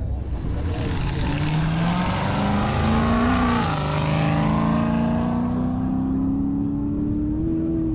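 A car accelerating hard past at speed, its engine note rising. The pitch drops as it passes about three and a half seconds in, then the engine fades into the distance, still pulling.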